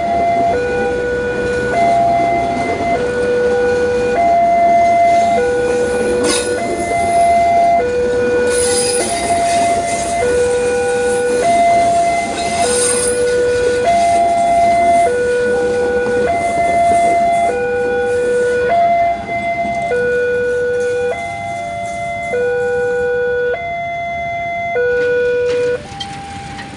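An electronic railway level-crossing alarm repeats its two-tone warning, about one tone change every three-quarters of a second, while a train passes with a rushing rumble that fades near the end.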